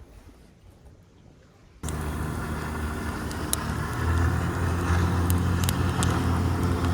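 Quiet ambience, then a motor engine running steadily starts abruptly about two seconds in, with a low even drone that grows a little louder about four seconds in.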